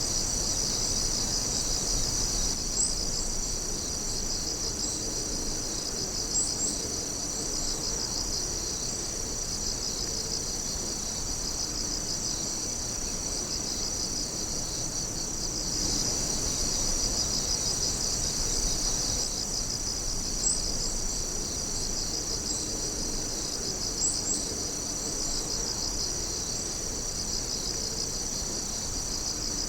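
A chorus of night insects, crickets among them, calling without pause in a dense, fast-pulsing high trill. A few sharper, brief chirps stand out now and then.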